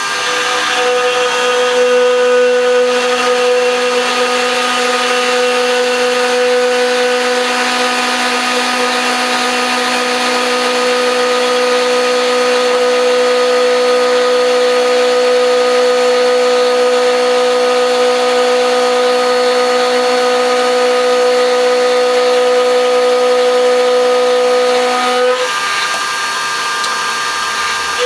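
Motor-driven metalworking machine tool running steadily with a constant whine. Near the end its lower hum drops away and the tone shifts.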